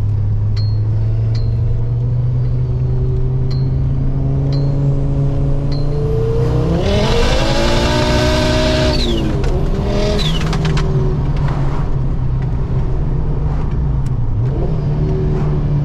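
Heavily modified big-turbo Ford Focus ST engine running at a steady low drone. About six seconds in it revs hard under acceleration, with a loud rushing noise over the engine for a couple of seconds. It then drops back briefly as it changes gear, pulls again, and settles to a steady drone.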